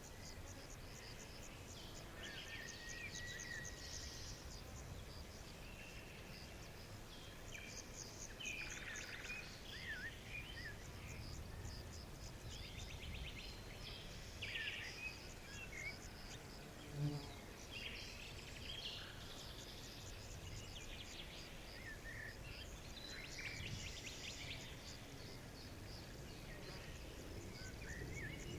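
Several songbirds chirping and trilling in short, overlapping phrases over a steady low background rumble, with one brief low tone about seventeen seconds in.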